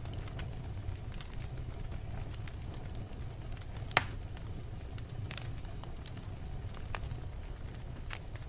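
Wood fire burning in a fireplace: a steady low rumble of flames with scattered crackles from the burning logs, and one sharp, loud pop about four seconds in.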